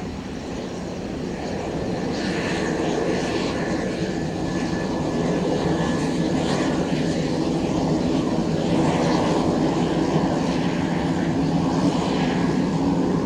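Pilatus PC-12/45's single Pratt & Whitney PT6A turboprop running, growing louder over the first several seconds and then holding. It has a steady propeller hum and a thin high whine.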